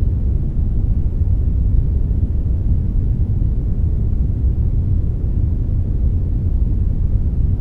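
Steady synthetic brownish noise, a blend of brown and white noise: an even, deep rushing hiss, heaviest in the bass, with no change.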